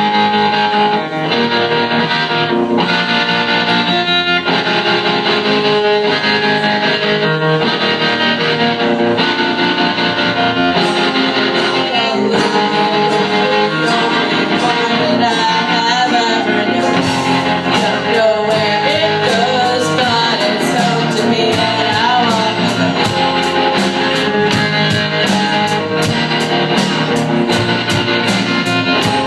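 A live rock band playing, with electric guitars and drums; regular cymbal strokes come in about ten seconds in.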